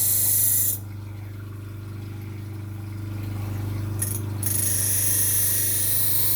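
Electric grinder running steadily while a steel knife blade is ground on it. The hissing grind stops about a second in, leaving the motor humming on its own, and starts again about four and a half seconds in.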